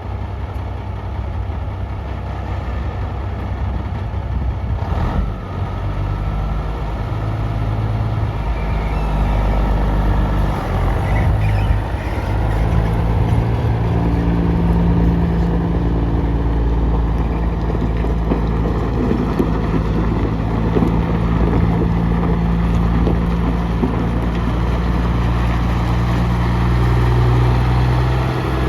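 A 1998 Ford water truck's engine running steadily, getting somewhat louder after about six seconds.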